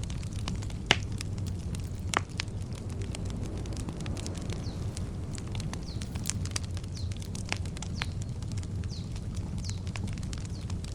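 Wood campfire crackling with frequent small snaps and two louder pops about one and two seconds in, over a steady low rumble. A bird gives short, high, falling chirps again and again through the middle.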